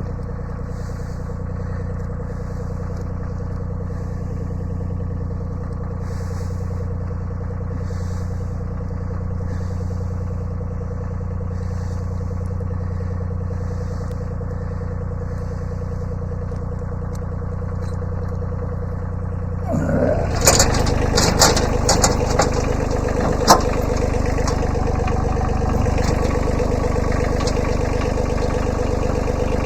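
Kubota B7100 subcompact tractor's small three-cylinder diesel running steadily at low speed, then about twenty seconds in it gets louder as it works under load, with several sharp cracks or knocks over the next few seconds.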